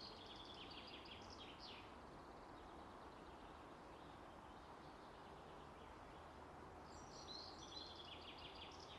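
Faint bird chirping, quick twittering trills in the first two seconds and again near the end, over a low steady hiss.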